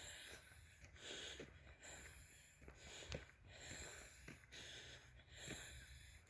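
Faint heavy breathing of a person out walking, in and out about once a second, with a few faint footsteps.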